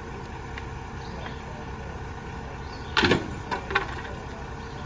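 Mack MRU rear-loader garbage truck's engine running steadily, with a loud crack about three seconds in and a shorter sharp bang just after.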